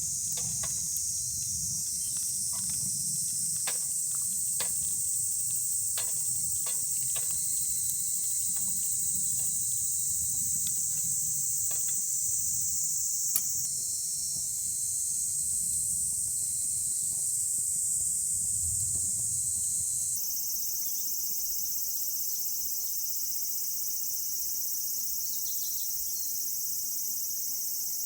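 A steady, high-pitched chorus of summer insects chirping. Scattered sharp clicks come through in the first half over a low rumble, and both stop suddenly about two-thirds of the way in, leaving the insect chorus.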